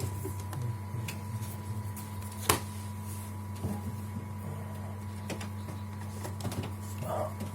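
Steady low electrical hum with scattered light clicks and taps, one sharper click about two and a half seconds in.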